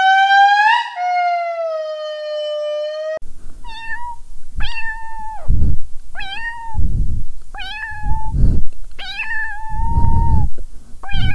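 An indri's long wailing song note, rising and then falling in pitch, which stops abruptly about three seconds in. Then a domestic cat meows about six times, roughly once a second, the longest meow near the end, with low rumbling noise between the meows.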